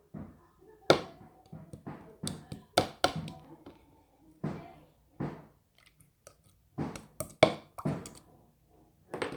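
A run of irregular knocks and taps, more than a dozen sharp hits in quick succession, each with a short ringing tail.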